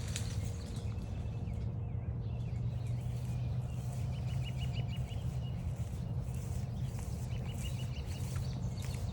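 A songbird gives a short, rapid series of high notes, twice, over a loud steady low rumble.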